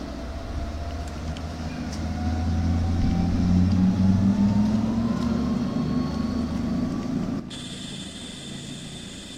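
A vehicle engine running, its pitch climbing slowly for about seven seconds. Then the sound changes abruptly and the low rumble drops away.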